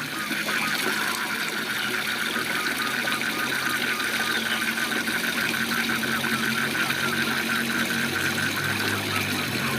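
Waterfall rushing steadily, with frogs calling in a fast, even pulsing rhythm over it.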